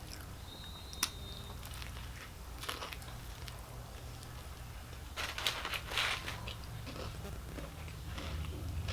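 Close-up eating sounds: chewing and biting into a Popeyes spicy fried chicken sandwich, with a sharp click about a second in and louder crunchy chewing about five to six seconds in, over a steady low hum.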